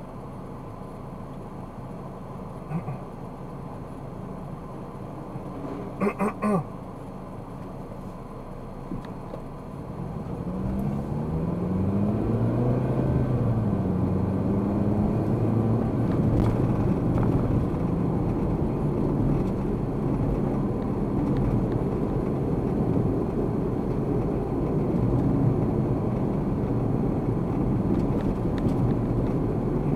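A car's engine and road noise, heard from inside the car. It idles or rolls quietly at first, three quick beeps sound about six seconds in, and at about ten seconds the engine pulls away with rising pitch and settles into steady, louder running.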